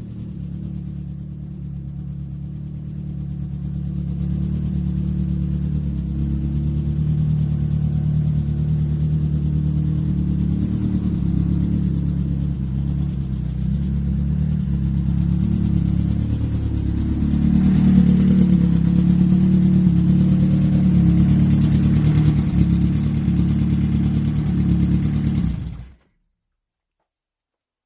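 Renault Clio 16S 16-valve four-cylinder engine running, newly brought back into service. It grows louder a few seconds in and again at about eighteen seconds, as if held at raised revs, then stops abruptly near the end.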